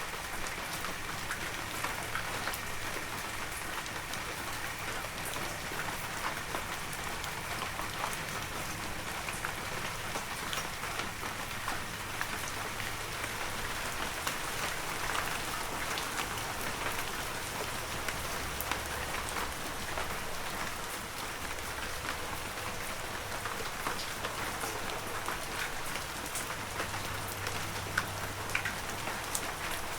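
Heavy rain falling steadily, a dense even hiss with the separate taps of individual drops hitting nearby surfaces.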